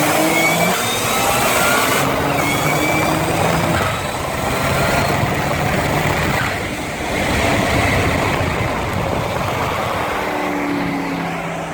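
High-horsepower car engine at full throttle during a roll race, its pitch climbing through the gears with shifts, over heavy wind and road noise. Near the end the pitch falls as the car comes off the throttle at about 130 mph.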